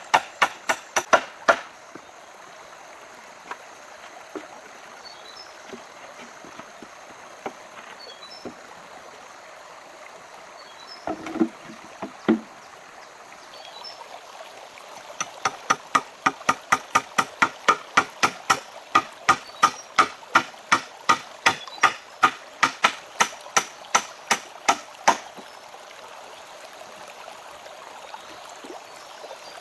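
Rapid, evenly spaced strikes of a hand tool on wood, about three a second, in two runs: one briefly at the start and a longer one from about halfway to near the end. A couple of duller thumps come in the gap. A steady background rush runs under it all.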